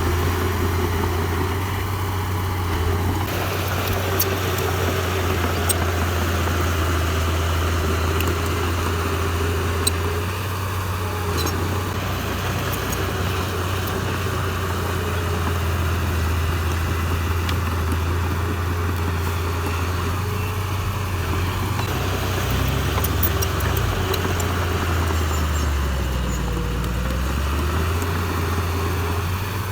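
Heavy diesel engine of earthmoving equipment running steadily. Its note dips briefly and recovers near the end, and a few faint sharp clicks are heard over it.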